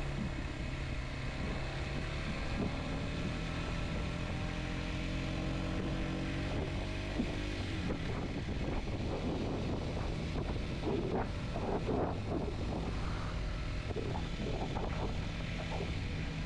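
Kawasaki Z125's small single-cylinder engine running under way, its pitch rising slowly over the first several seconds. Wind buffets the microphone through the second half.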